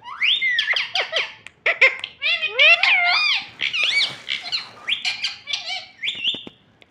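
Pet parrot calling: a rapid run of squeaks, chirps and whistles sliding up and down in pitch, with a few short clicks near the end.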